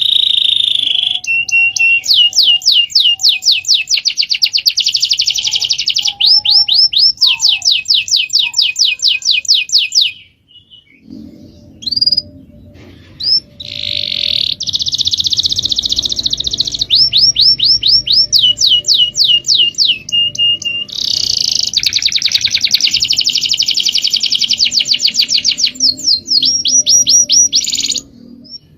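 Small songbird singing in rapid trills: runs of quick sweeping notes, about six a second, in phrases of a few seconds separated by short breaks, with a longer pause about a third of the way in.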